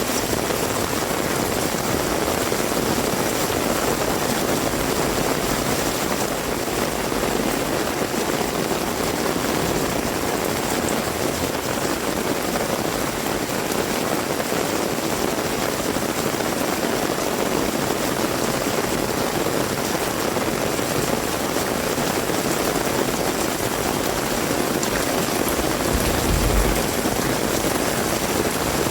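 Heavy rain falling steadily in an even downpour, with a brief low rumble near the end.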